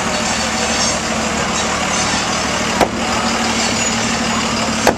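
Fireworks shells exploding in the sky: two sharp bangs, one about three seconds in and one near the end, over a steady low hum and background noise.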